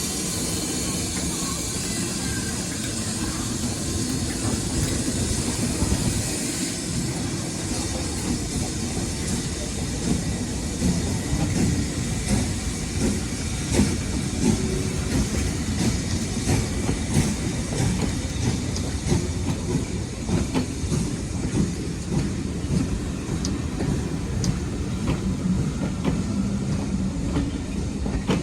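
Steam train running past on a heritage line: a steady low rumble of the train with a hiss in the first few seconds, then wheels clicking unevenly over the rail joints.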